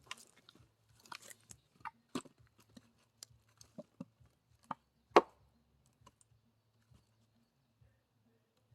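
Firewood being handled during axe splitting: scattered light wooden knocks and clatters, with one sharper knock about five seconds in.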